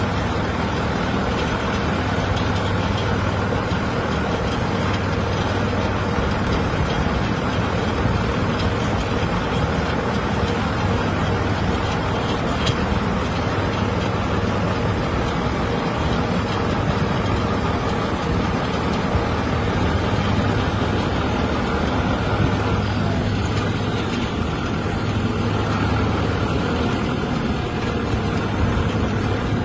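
Steady engine drone with a low hum, unchanging in level.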